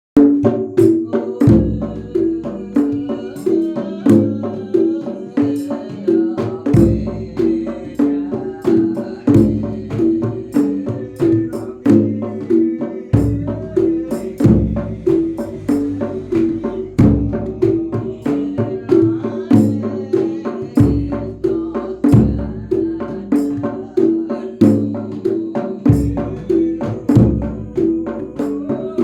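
Javanese percussion ensemble playing, with deep jedor bass-drum strokes every few seconds under fast, sharp percussion and a repeating pitched pattern.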